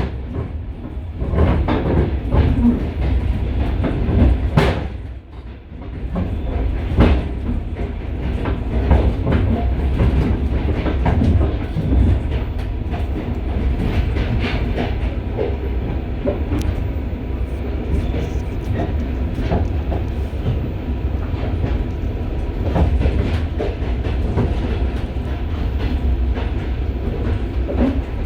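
Rumble and clatter of a moving train heard from inside a carriage's vestibule, with the wheels knocking irregularly over rail joints and switches. There is a brief quieter spell about five seconds in.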